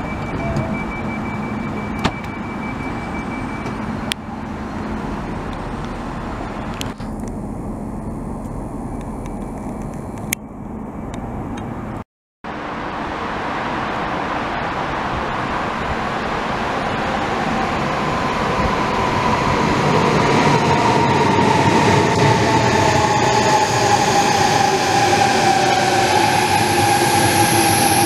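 Platform noise beside a stationary ICE with a closed side door: a steady high beep for the first few seconds and a few sharp clicks. After a sudden cut, an ICE high-speed train pulls in. Its rolling rush grows louder while several whining tones slide slowly down in pitch as it brakes.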